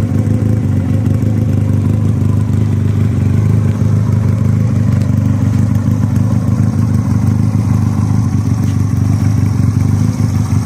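Motor trike's engine idling steadily and loudly through newly fitted short "shorty" mufflers, the exhaust cut off 4 inches from the crossover.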